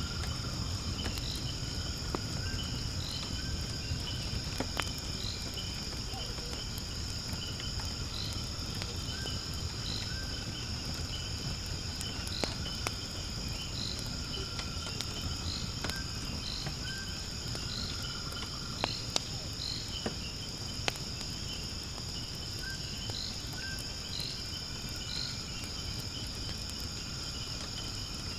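Wood fire crackling in a fire pit, with scattered sharp pops over a low steady rumble. A constant high insect chorus and repeated short chirps carry on behind it.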